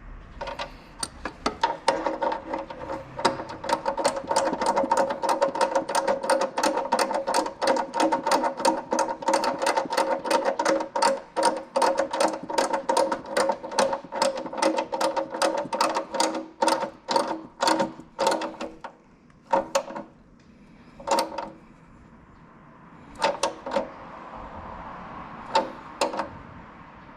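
Socket ratchet wrench clicking rapidly and evenly, about four metallic clicks a second, then a few separate clicks near the end.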